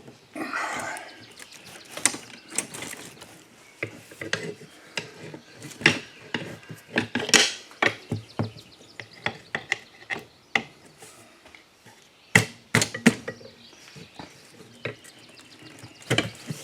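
Steel pry bars clinking and scraping against a small lawn mower wheel rim as a tire bead is levered over it: an irregular series of sharp metal knocks and clicks, with a brief scrape about half a second in.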